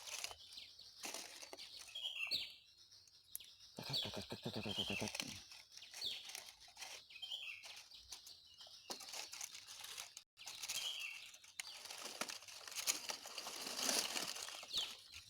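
A small bird chirping over and over, one short call every second or two, with rustling and handling noise underneath.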